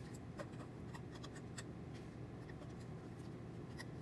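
Faint small clicks and scrapes of hands working wires and a small plug loose from a 3D printer's hotend wiring, over a steady low hum.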